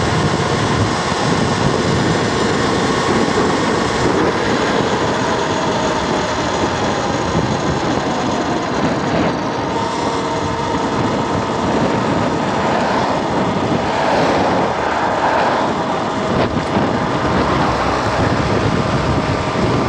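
Steady rush of wind over the microphone while riding an electric motorcycle at road speed, with a faint steady whine running under it.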